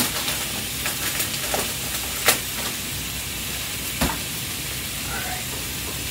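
Salmon fillets and vegetables sizzling steadily in a grill pan and skillet on the stovetop, with a few sharp knocks, the loudest about two seconds in and another about four seconds in.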